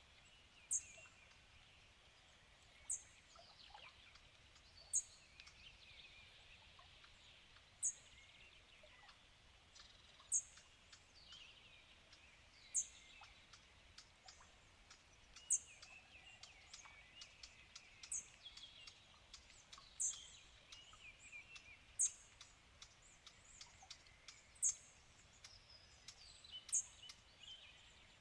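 Birds calling in woodland: one bird gives a short, very high note over and over, about every two seconds, above softer chirping and twittering from other birds.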